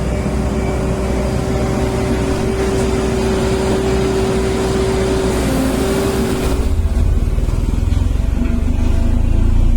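Diesel engine of a JCB Vibromax soil compactor running steadily with a deep rumble. About five to six seconds in there is a brief hiss, and after it the low rumble turns heavier and pulsing.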